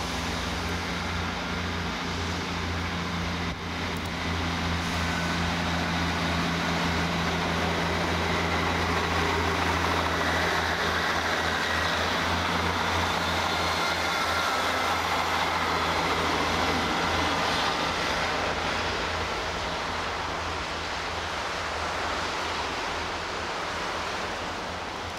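Northern Class 158 diesel multiple unit running past: a steady low diesel engine drone under the rush of wheels on the rails. It grows louder through the middle and fades near the end.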